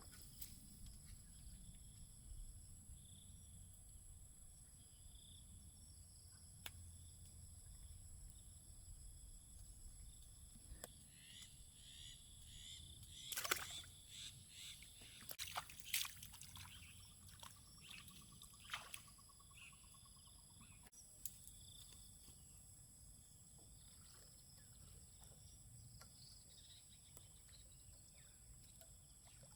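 Faint outdoor ambience: a steady low rumble with thin, steady high-pitched tones over it, and a cluster of sharp clicks and short chirps for several seconds in the middle.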